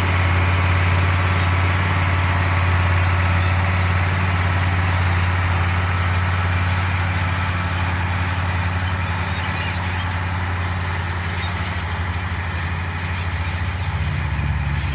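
White 2-180 tractor's diesel engine running steadily under load, pulling a corn planter, with a slight shift in the engine note near the end.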